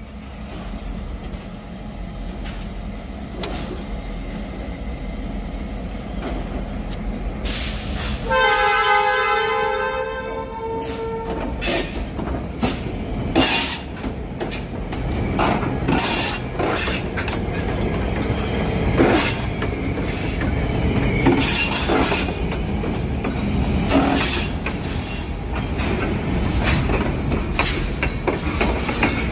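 A diesel-hauled CN freight train rumbles closer, then sounds a chorded horn blast of about two and a half seconds roughly a third of the way in. The locomotives and freight cars then pass close by over a wooden trestle, their wheels clicking and clacking over the rail joints.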